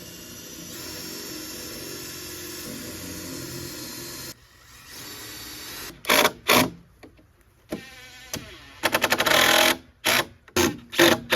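Cordless power drill boring into pressure-treated lumber: a steady run of about four seconds and a shorter one, then several short, loud bursts near the end, one of them with a rapid rattling hammer.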